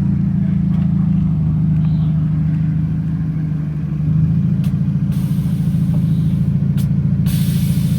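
A car engine running at low speed with a rhythmic low rumble, stepping up a little about four seconds in. Bursts of hiss join it in the second half.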